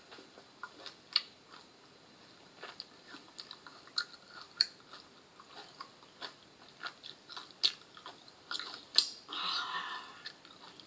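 Close-miked ASMR eating sounds of a person chewing whole grubs: irregular sharp mouth clicks and smacks. About nine seconds in comes a breathy "haaa" exhale.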